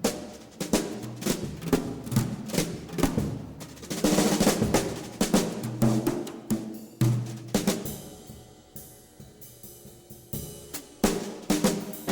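Drum-led music: quick, sharp snare and bass drum strokes, dropping quieter for a couple of seconds past the middle before the drumming picks up again.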